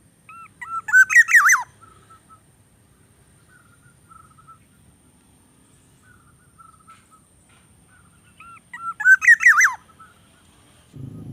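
A bird calling: two loud short phrases of quick rising-and-falling notes, about eight seconds apart, with faint soft chirps in between.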